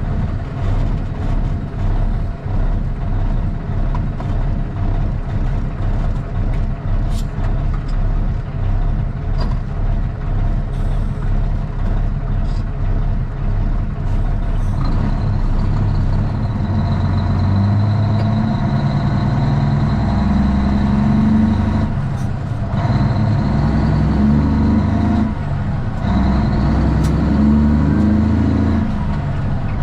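Straight-piped Cummins ISX diesel engine of a Kenworth T800 running. It is steady at first, then louder and heavier from about halfway, with three brief drops near the end.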